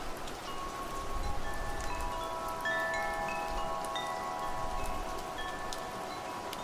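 Wind chimes ringing over steady rain; the chime notes start about half a second in and overlap, each ringing on for several seconds.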